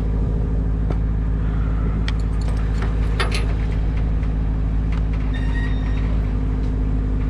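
An engine running steadily with a low, even drone, with a few light clicks about two and three seconds in.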